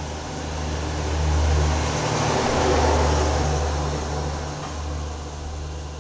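Passenger coaches of a departing express train rolling past close by: a steady rumble of wheels on the rails under a low hum, swelling about halfway through and easing as the last coach goes by.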